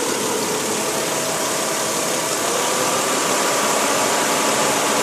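Ford Freestar minivan's V6 engine idling under a steady rushing noise, getting a little louder about halfway through, while the coolant system is burped of trapped air; air is still in the system.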